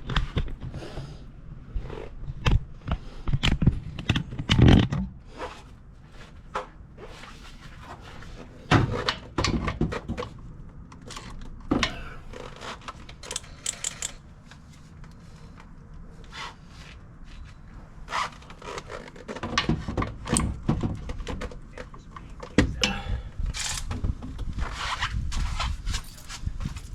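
Irregular knocks, clanks and scrapes of hand tools and metal parts, in clusters with quieter stretches between.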